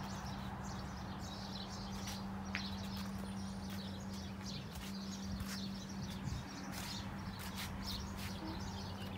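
Small birds chirping in short repeated bursts over a steady low hum, with a few sharp clicks.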